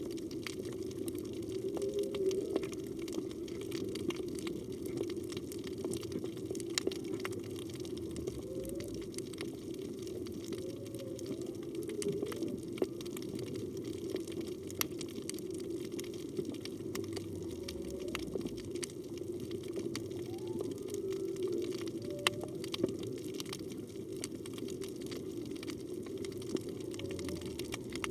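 Underwater ambience: a steady low rush of water with scattered sharp clicks, and faint short upward-sweeping calls every few seconds, which the recordist takes to be humpback whale song.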